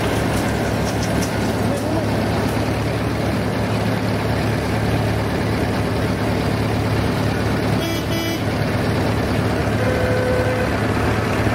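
Old tractor engine running steadily with a rapid low firing pulse, with a short toot about eight seconds in.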